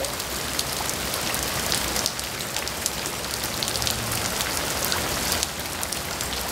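Steady rain splashing onto standing water: a constant hiss full of small, quick drop impacts.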